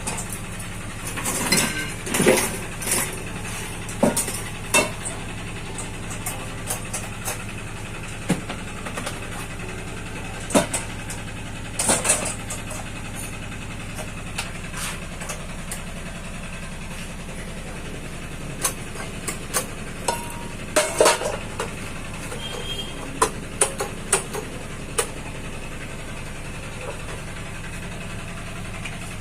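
Scattered clicks and knocks of a rice cooker's parts and tools being handled during repair, some in quick clusters, over a steady low hum.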